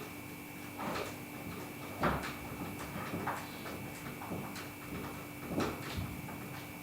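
A series of separate knocks and clunks, about one a second, the second one loudest, from work on a newly fitted sliding glass door, over a faint steady hum.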